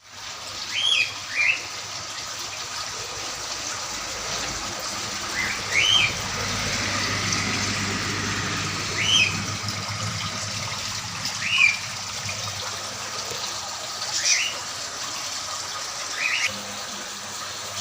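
Steady trickle of water from a small decorative waterfall, with short bird chirps every few seconds.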